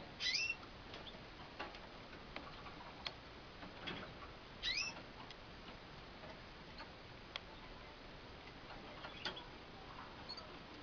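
Young cockatiel giving two short, high calls that sweep down in pitch, one near the start and one about five seconds in, with scattered light clicks and taps between them.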